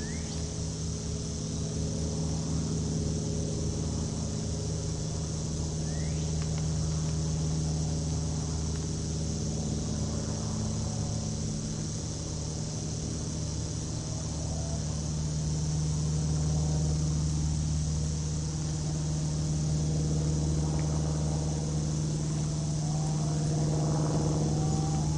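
Crickets in the grass chirring in a steady, unbroken high-pitched chorus over a steady low hum, with a few faint bird chirps.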